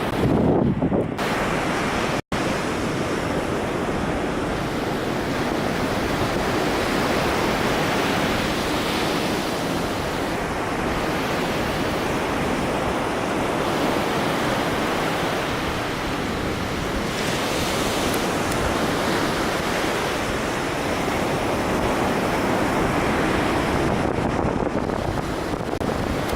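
Steady wind buffeting the microphone over a constant wash of surf, with a split-second dropout about two seconds in.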